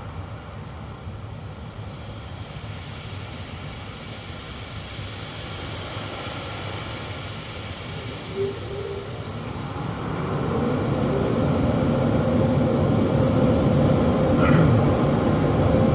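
Automatic car wash machinery running, heard from inside the car: a steady rumble and hiss that grows louder from about ten seconds in as a steady hum comes in.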